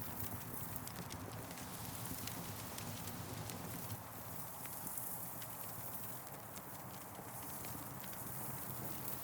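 Campfire burning: irregular crackles and pops of burning wood over a steady hiss.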